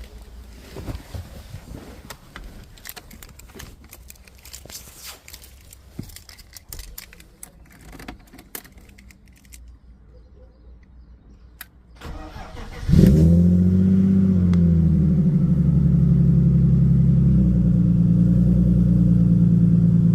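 BMW 323i's M52B25 straight-six starting from cold: after about twelve seconds of small clicks and rattles, the starter cranks briefly, the engine catches with a rev flare that falls back, and it settles into a steady fast cold idle that steps down slightly a few seconds later.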